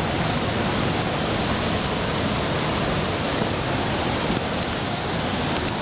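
Water falling over a lake dam, a steady, loud rushing noise.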